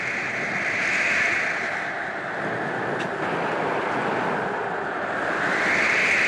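Wind blowing in gusts: a loud rushing that swells about a second in and again near the end.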